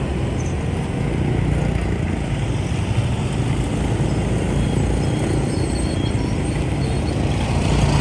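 Steady motorbike traffic heard from a moving motorbike: a low hum of engines and road noise from the surrounding scooters and the rider's own bike, with no single event standing out.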